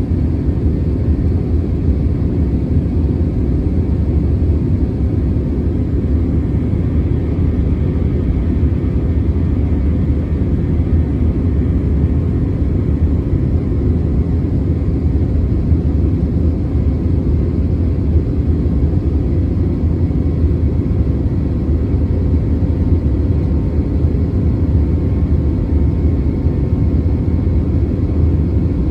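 Airbus A321 jet airliner in flight, heard from inside the cabin: a steady, unbroken low rumble of engines and airflow, with a few faint steady tones above it.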